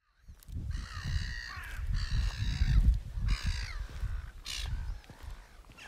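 Four harsh, cawing bird calls, each under a second long, over a low rumble.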